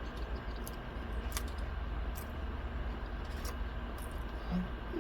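Quiet eating with a few faint short mouth clicks over a steady low hum, and a brief low sound just before the end.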